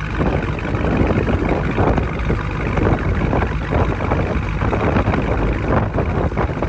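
2020 Dodge Charger Scat Pack's 392 (6.4-litre) HEMI V8 running steadily, a deep exhaust rumble.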